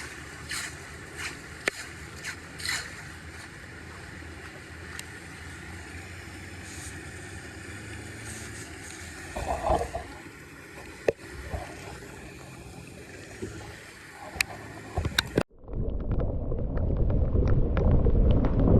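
Water running with scattered scrapes and clicks of debris being pulled from a clogged drain. About fifteen seconds in the sound cuts off abruptly and gives way to a louder, low rushing noise.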